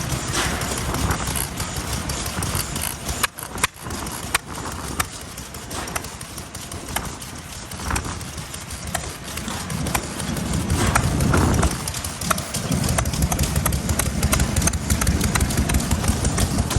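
Old single-cylinder stationary farm engines (hatsudōki) running, with a string of uneven sharp pops and clicks over a steady low rumble.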